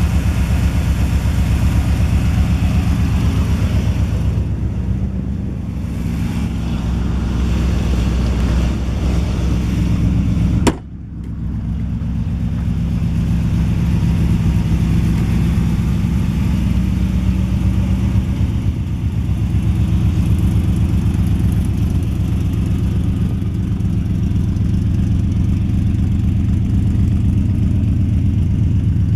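A 1976 Corvette's 350 L48 V8, fitted with a Holley carburetor and a mild cam, idling steadily through headers and side pipes with a low exhaust note. About eleven seconds in, the sound breaks off briefly with a click and picks straight up again.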